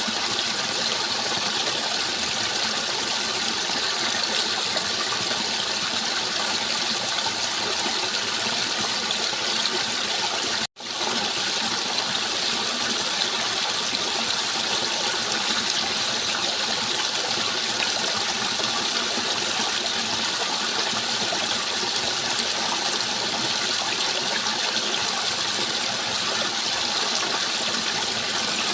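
Running water, a steady rushing flow like a stream or small waterfall. The sound cuts out for a split second about ten seconds in, then resumes unchanged.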